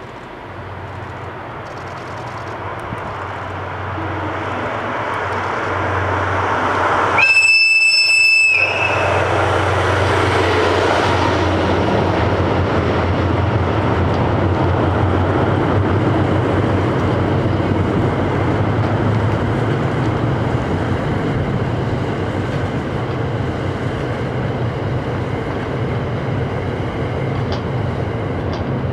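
Train approaching and passing: the DF200 diesel locomotive's engine hum grows louder as it nears. About seven seconds in, one horn blast sounds for just over a second. After that, the E26 Cassiopeia sleeper coaches' wheels rumble steadily past on the rails.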